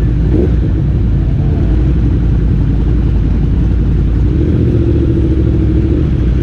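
Motorcycle engines rumbling together in a steady, loud mass, with a brief rising rev about half a second in.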